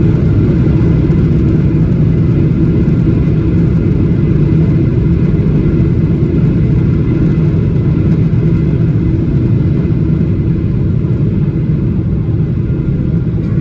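Loud, steady rumble of a Boeing 777-300ER's GE90 engines and airframe as heard inside the economy cabin, easing slightly near the end.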